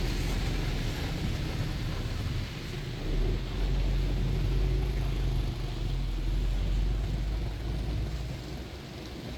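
Steady low rumble and road noise of a moving double-decker tour bus, with street traffic around it.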